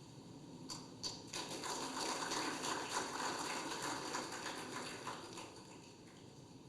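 A room of people applauding briefly, starting about a second in and dying away near the end.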